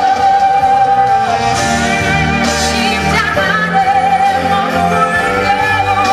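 A woman singing live with band accompaniment, holding long notes with vibrato over a steady bass line.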